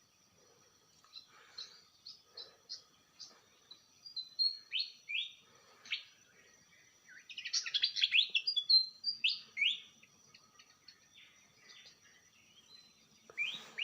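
Small songbirds chirping: a series of short, quick notes sweeping downward, with a dense burst of twittering calls about halfway through.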